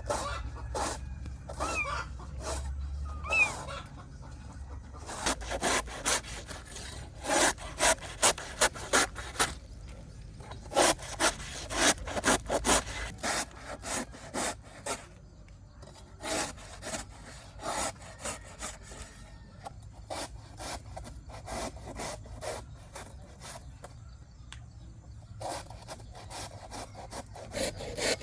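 Repeated rasping strokes, about two a second, in runs with short pauses. A cat meows briefly near the start.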